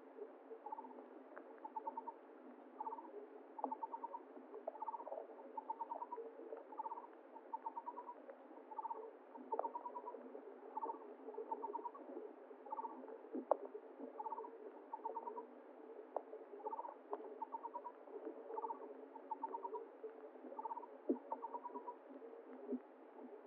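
An animal call repeating about once a second, each call a short run of four or five quick notes, which stops a couple of seconds before the end. Under it is a steady rush of flowing water with scattered clicks.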